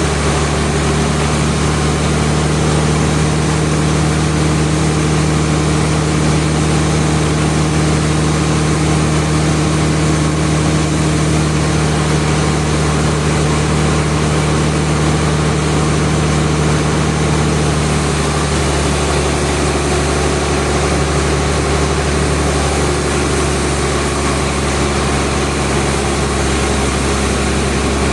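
Heavy machine engine running steadily with a low hum, its pitch shifting slightly about two-thirds of the way through.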